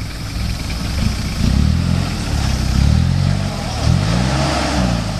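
A motor vehicle's engine close by, growing louder as it approaches, its pitch rising and falling several times as it revs and changes speed.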